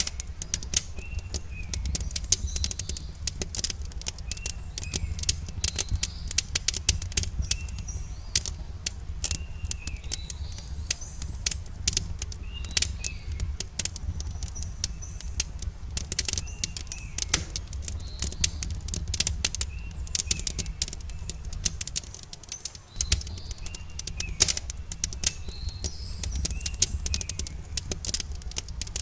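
Campfire crackling, with frequent irregular sharp pops and snaps over a low steady rumble of burning wood. A small bird repeats a short chirp every few seconds.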